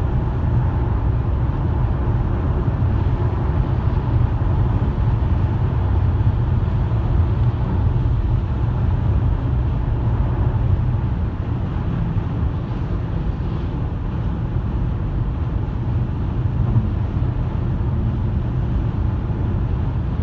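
A car driving steadily: continuous low road and engine rumble with no changes.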